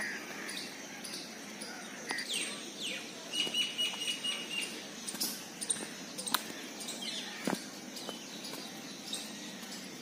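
Birds chirping and calling over a steady outdoor hiss: a few quick downward chirps, then a rapid run of about six short high notes. A couple of sharp clicks come later.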